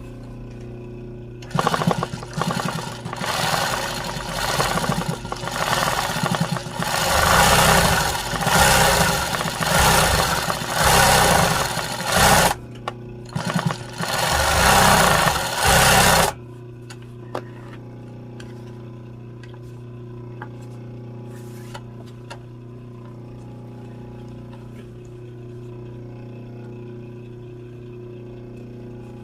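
Sewing machine stitching in a run of bursts, stopping and starting for about fifteen seconds, then stopping suddenly. After it stops, a steady low hum remains.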